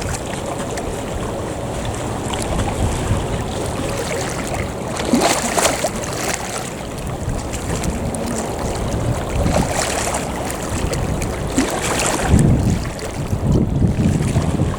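Wind buffeting the microphone over sea waves washing against the shore. It is a steady rushing noise with louder surges about a third of the way in, around two-thirds through and again near the end.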